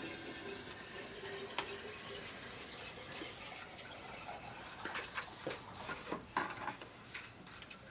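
Kitchen utensils clinking and knocking against dishes and pots in irregular light taps, busier in the second half.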